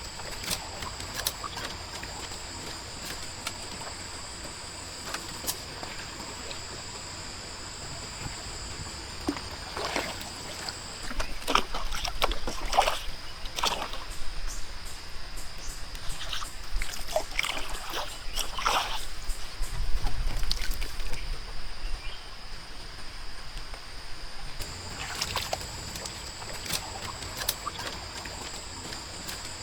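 Water splashing and sloshing in irregular bursts, loudest through the middle, over a steady high-pitched hum.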